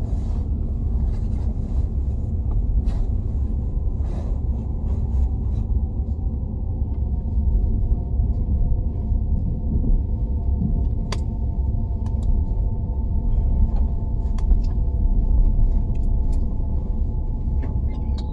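Cabin noise of a Fuxing CR400AF-AE high-speed sleeper train running at speed: a steady low rumble, with a faint steady whine coming in partway through and a few light clicks.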